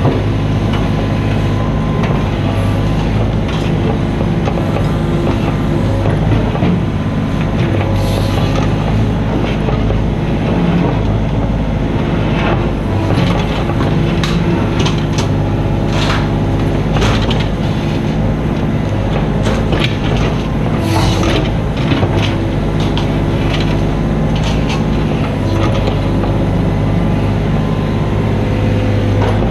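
Mini excavator's diesel engine running steadily, with scattered short clanks and scrapes through the middle of the stretch as the machine works.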